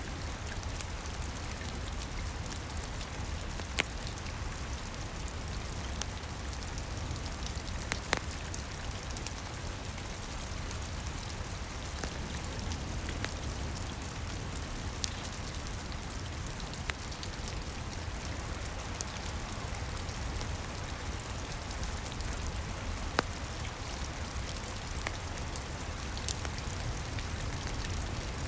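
Steady rain with a low rumble underneath, and a wood fire crackling with a few scattered sharp pops.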